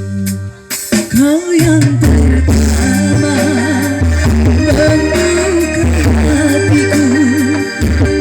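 A singer performing a slow song with a wavering vibrato over an electronic keyboard backing track; the voice comes in about a second in, after a brief drop in the accompaniment.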